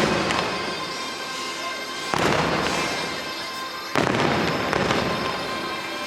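Fireworks bursting: three loud reports about two seconds apart, each fading into a long rumble, with the show's music playing underneath.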